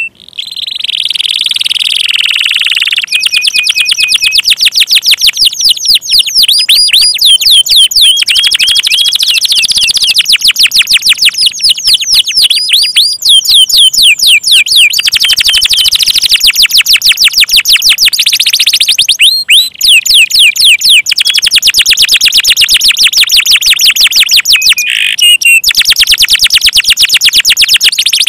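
Domestic canary singing loud, fast rolling trills of rapidly repeated high notes, broken by a few short pauses.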